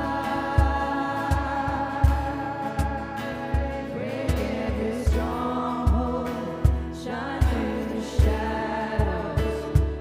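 Gospel-style church worship music: voices singing over a band with a steady bass and drum beat.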